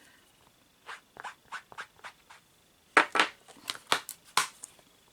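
Paper and craft tools being handled on a desk: a string of short clicks and scrapes, loudest in a cluster about three to four and a half seconds in.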